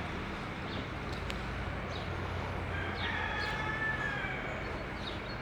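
A rooster crowing once in the distance, a drawn-out call about three seconds in lasting over a second and falling slightly at the end, over a steady rushing background with short, high bird chirps.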